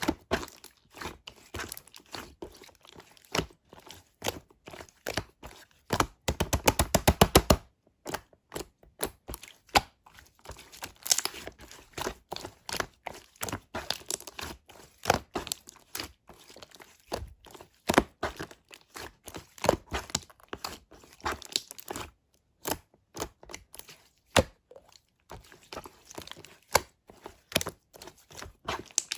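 Slime being pressed, folded and stretched by hand, giving irregular crackling, popping and crunching clicks, with a quick run of rapid clicks about six seconds in.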